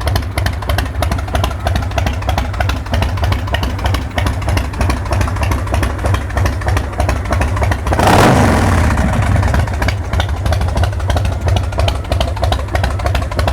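2004 Big Dog chopper's V-twin engine idling through SuperTrapp mufflers with a loping beat. About eight seconds in there is one short throttle blip, and then it settles back to idle.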